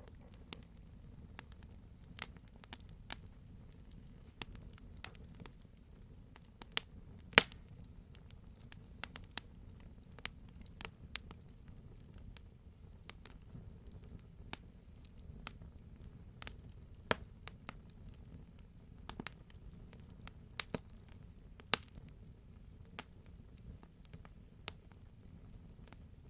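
Wood campfire crackling with a low steady rumble of the flames and scattered sharp pops of burning logs, the loudest a pair about seven seconds in and another near the end.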